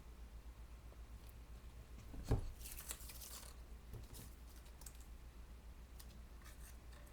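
Handling of paper flowers and trim at a craft table: a sharp knock about two seconds in, then light rustling, crinkling and small clicks, over a steady low hum.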